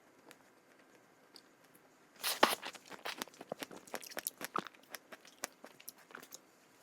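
A person biting into a crunchy strawberry snack about two seconds in, the loudest crunch, then chewing it with a rapid run of crisp crunches that fades out near the end.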